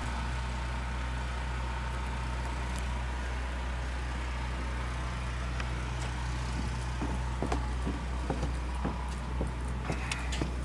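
A steady low engine hum, with a faint steady whine above it, and scattered short knocks and clicks from about seven seconds in.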